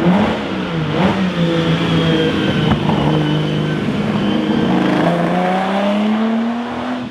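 Lamborghini Miura P400S's transverse V12 engine running as the car is driven. The engine note drops in the first second or so, holds steady, then climbs smoothly over the last couple of seconds as it accelerates.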